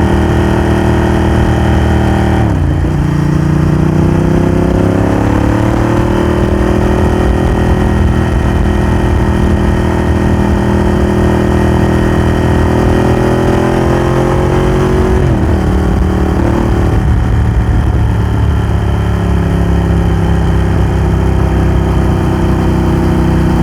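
Ducati Hypermotard 1100's air-cooled L-twin running through a Termignoni exhaust while ridden. Its pitch climbs, drops sharply at an upshift a couple of seconds in, then climbs slowly. It drops again at a second upshift a little past halfway and then holds fairly steady.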